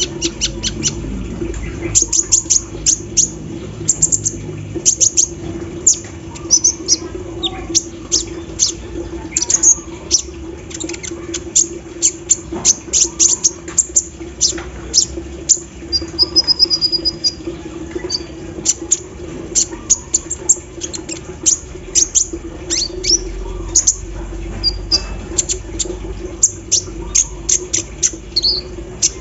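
Kolibri ninja sunbird singing in rapid runs of short high chirps and ticks, with one brief held note midway. Its song is filled with mimicry of an embroidery machine. A steady low hum runs underneath.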